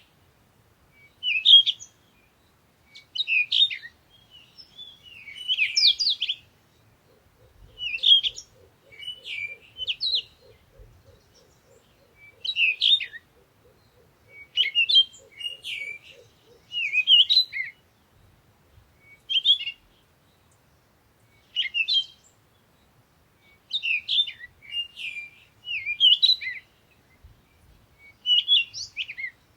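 Songbirds chirping in short bursts of quick, high notes, one burst every second or two, with brief quiet gaps between. A faint, rapid, low trill runs underneath through the middle of the stretch.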